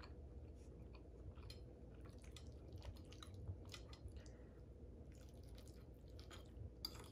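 Quiet close-up chewing and mouth sounds of someone eating lasagna, with scattered soft clicks throughout and one sharper click near the end.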